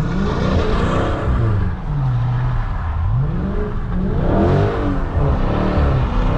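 Dodge Scat Pack's 392 HEMI V8 revving hard, its pitch climbing and dropping several times as the car is pushed through a turn with traction control off.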